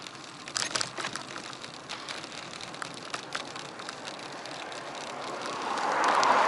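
Bicycle riding as picked up by a bike-mounted action camera: scattered rattling clicks from the bike over a steady hiss, then a rushing noise that swells up near the end and becomes the loudest sound.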